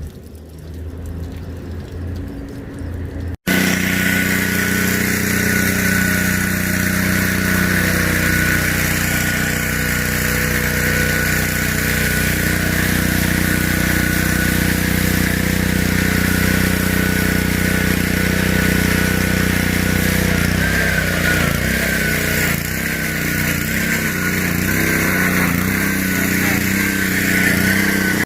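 A pressure washer running steadily: a motor's hum with a steady high whine. It cuts in abruptly a few seconds in after a quieter stretch, and the whine wavers near the end.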